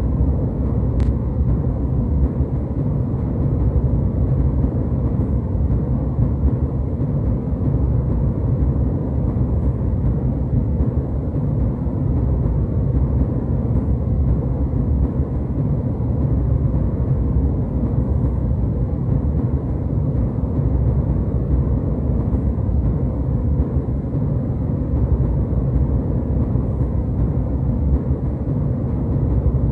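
Jet airliner cabin noise in flight: a steady low rumble of engines and rushing air, heavy in the bass, with little high hiss.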